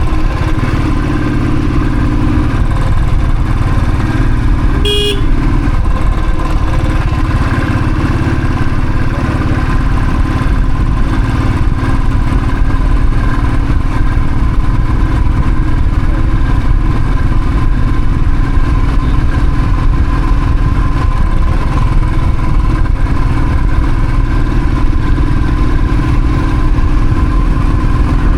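Royal Enfield Thunderbird single-cylinder motorcycle running steadily on the move, under a heavy low rumble, with a short horn toot about five seconds in.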